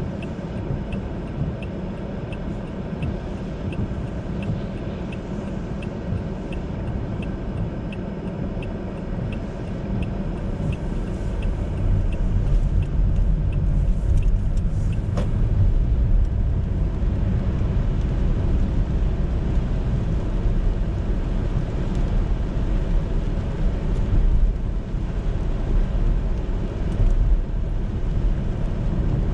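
Road and engine rumble heard inside a moving car's cabin, with a turn-signal indicator ticking evenly for the first eight seconds or so. The rumble grows louder about eleven seconds in.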